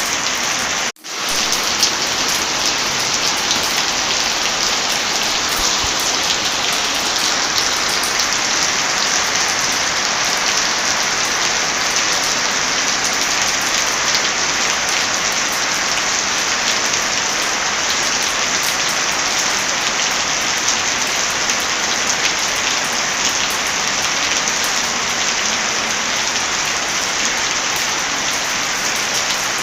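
Heavy rain falling steadily: a dense hiss with many small sharp ticks running through it. The sound drops out for a split second about a second in, then resumes.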